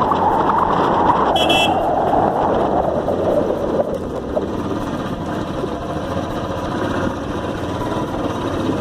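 Motorcycle riding in traffic: steady engine and road noise, with a short horn honk about a second and a half in.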